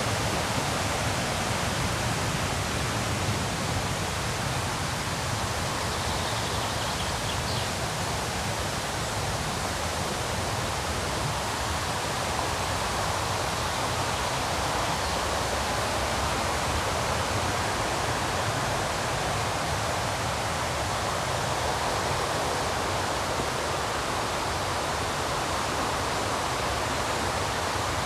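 Steady rush of river rapids, a dense, even roar of white water with no change in level. A few faint high bird chirps come through near the start.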